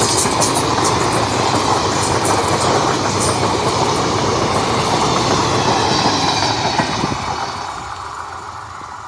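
Express passenger train's coaches rolling past, wheels clattering over the rail joints, the sound dying away over the last couple of seconds as the train moves off.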